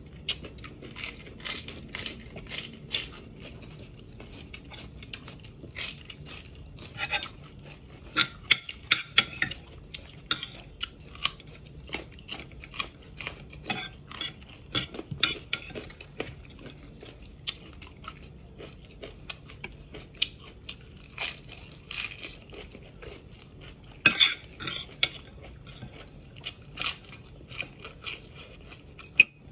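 Crunching and chewing of raw carrot close to the microphone: irregular crisp crunches, coming in thicker clusters several times.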